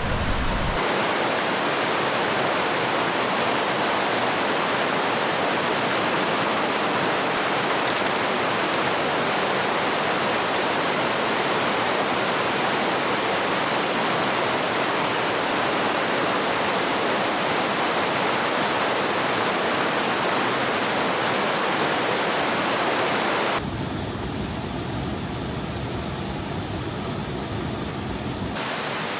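Steady rushing of flowing water, like a creek running over rocks. Near the end its tone shifts twice, abruptly.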